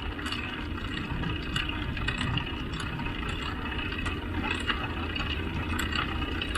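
Steady rushing and rumbling noise of a bicycle in motion, with faint light ticks scattered through.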